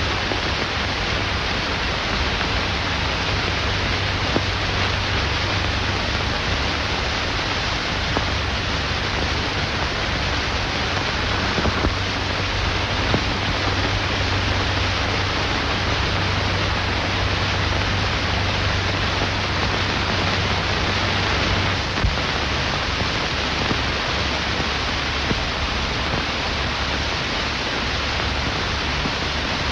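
Steady hiss and low hum of an old optical film soundtrack, with a few faint crackles and no other distinct sound.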